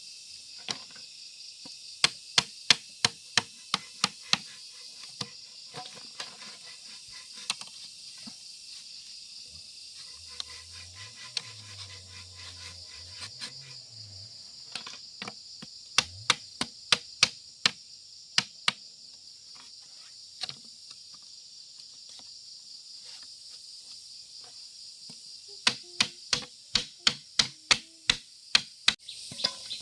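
Hammer driving nails into wood, in three runs of quick, sharp blows at about three a second, with scattered single taps between. A steady high drone of crickets or cicadas runs underneath.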